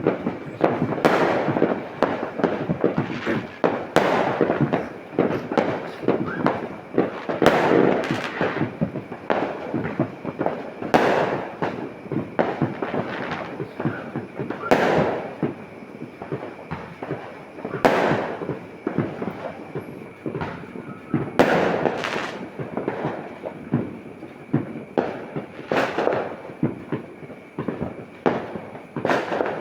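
New Year's fireworks and firecrackers going off: continuous crackling with sharp bangs every few seconds.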